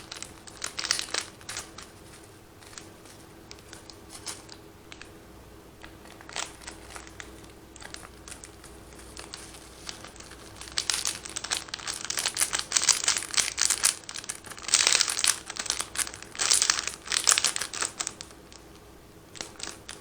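Plastic instant-noodle seasoning and chili sachets crinkling as they are handled and torn open, in irregular bursts that are sparse at first and busiest in the second half.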